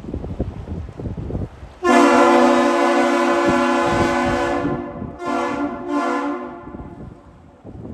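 Deep two-tone air horn of a thousand-foot Great Lakes freighter sounding a long blast, its level dipping and swelling again before it stops, as a harbour-arrival signal. Wind buffets the microphone throughout.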